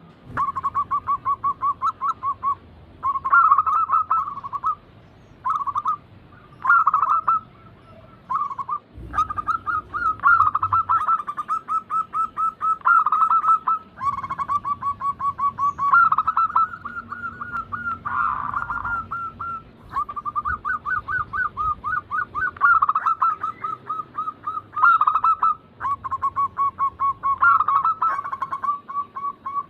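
Zebra dove (perkutut) cooing: rapid trilled coos at a steady pitch, repeated in phrases one after another with short pauses between.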